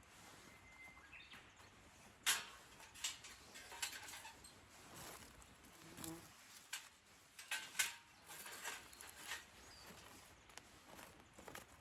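A series of light clicks and knocks, scattered irregularly over a faint background.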